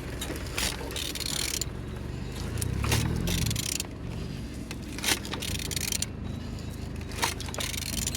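Metal clinks and scrapes as a removed Renault K9K 1.5 dCi diesel engine is turned over by hand, with a steady low hum underneath. The engine turns freely.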